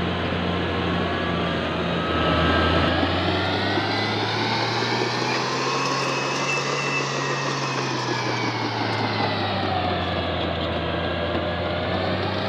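Caterpillar D6G bulldozer's diesel engine running under load as it pushes soil, with a whine over the engine note. The engine speed rises slowly over several seconds, falls away, and picks up again near the end.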